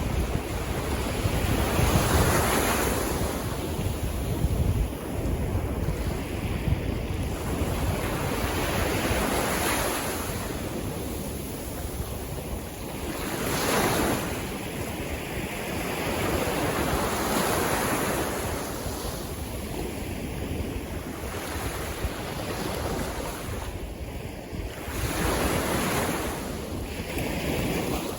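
Sea waves breaking and washing in, surging every few seconds. Wind buffets the microphone underneath.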